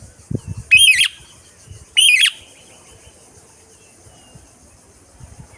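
Indian ringneck parrot giving two loud, shrill calls about a second apart.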